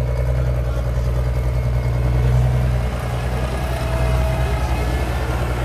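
Diesel engine running steadily at low revs, giving a deep, even drone.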